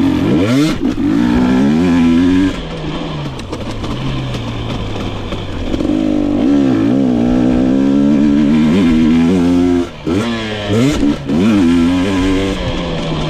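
GasGas EX 250 two-stroke fuel-injected (TPI) dirt bike engine being ridden, the revs climbing and falling with the throttle. It holds high revs for a few seconds, drops off briefly about ten seconds in, then picks up again.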